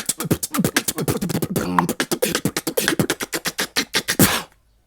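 Solo beatboxer performing a fast, dense routine: rapid percussive mouth sounds over deep bass sounds, cutting off suddenly near the end.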